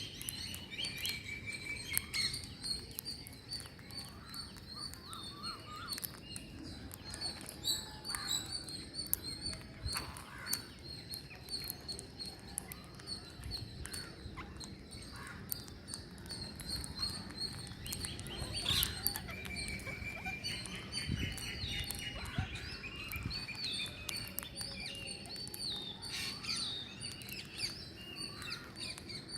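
Green parrots calling and chirping outdoors: many short, overlapping chirps with a few longer trilled calls.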